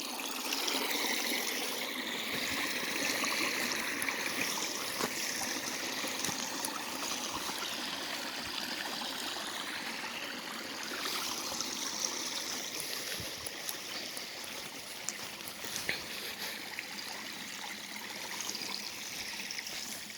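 Small creek running, a steady trickling and burbling of water.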